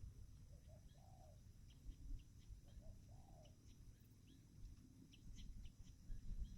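Spotted dove (tekukur) cooing faintly, two phrases about two seconds apart. Each phrase is a couple of short notes followed by a longer coo that rises and falls.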